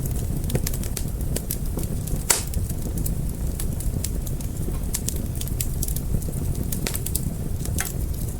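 Wood fire crackling: a steady low rumble of flames with many sharp pops and snaps, the loudest a little over two seconds in.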